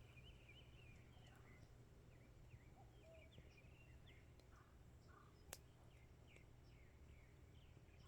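Faint birdsong: many short, quick chirps from small birds, over a low steady hum. A single sharp click a little past halfway is the loudest moment.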